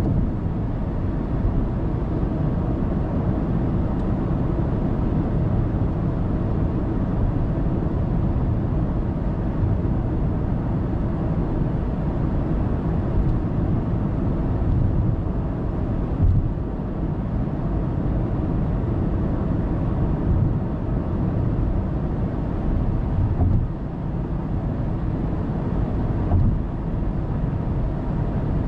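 Steady low rumble of a car cruising on an expressway, road and tyre noise with the engine underneath, picked up by a dashcam. A couple of brief thumps come through partway in.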